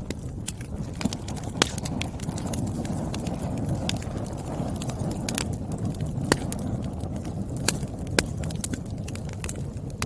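Wood fire burning in a fireplace: a steady low rumble of flames with frequent sharp crackles and pops of burning firewood, a few louder snaps scattered through.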